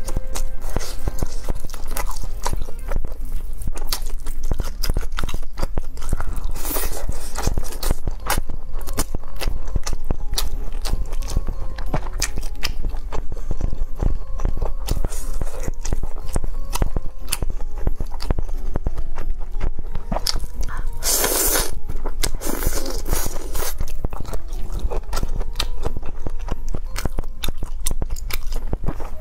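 Close-miked chewing and crunching of fried skewered food, many small crisp clicks, with one longer noisy burst about two-thirds of the way in, over background music.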